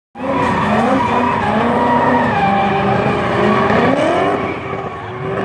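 Drift car engines revving hard and rising and falling in pitch while the tyres squeal in a sustained slide.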